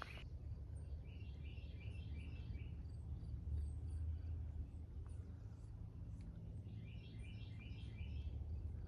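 A songbird singing a short phrase of quickly repeated chirping notes, twice: about a second in and again around seven seconds in. Under it runs a low, steady outdoor rumble.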